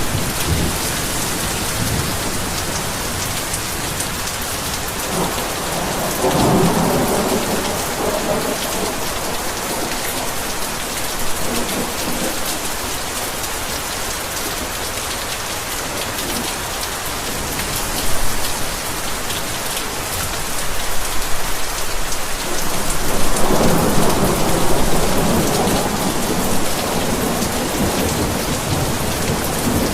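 Heavy rain falling steadily, with low rolls of thunder rumbling under it, once about six seconds in and again, longer, from about two-thirds of the way through.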